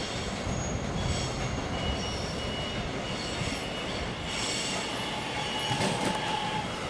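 Alstom X'Trapolis electric suburban train running towards the listener: a steady rumble of wheels on the rails, with thin, high wheel squeals coming and going.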